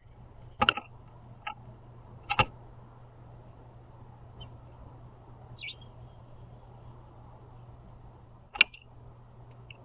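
Birds at a seed-filled platform feeder: four sharp taps, three in the first couple of seconds and one near the end, and a single brief high chirp in the middle, over a low steady hum.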